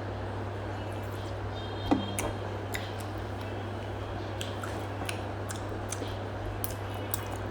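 Steady low hum of room noise with scattered light clicks and taps, and one sharper knock about two seconds in, as small objects are handled.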